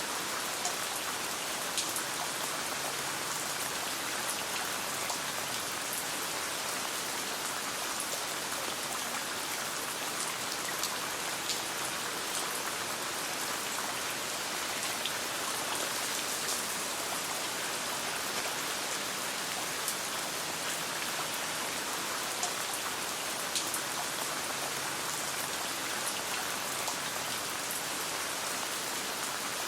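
Steady rain pattering, heard from inside a tent, with scattered sharp ticks and pops running through it.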